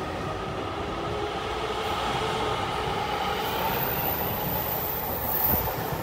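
JR Kyushu 813 series electric train pulling out of a station and passing close by: a steady whine from the traction motors over the rumble of the wheels on the rails. A single sharp knock stands out about five and a half seconds in.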